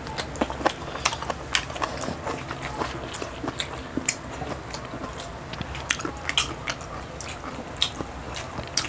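Close-miked eating of grilled food: biting and chewing, heard as short, irregular clicks several times a second.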